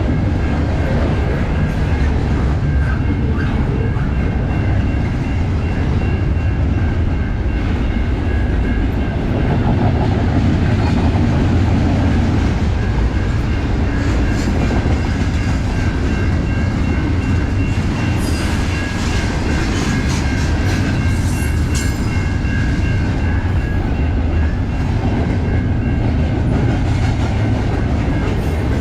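A train rolling past at close range, a steady loud rumble of wheels on rail with some clickety-clack and a thin, steady high-pitched ring from the wheels.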